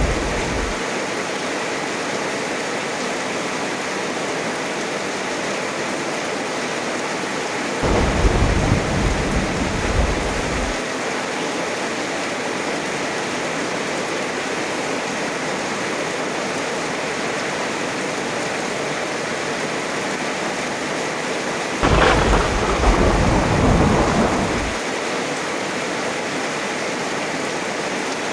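Steady heavy rain hiss with two rolls of thunder: one about a third of the way in, and a louder one with a sharp crack near the end, each rumbling for about three seconds.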